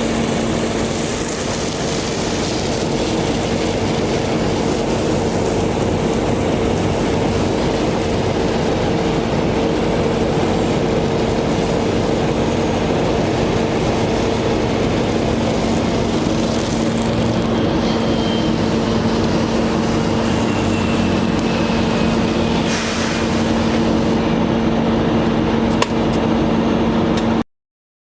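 Water truck's engine running steadily with a constant hum, cutting off suddenly near the end.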